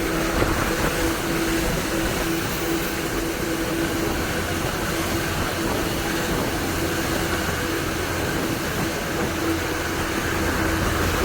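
Heavy rain falling, a steady rushing hiss, with a low hum and a faint tone that breaks on and off underneath.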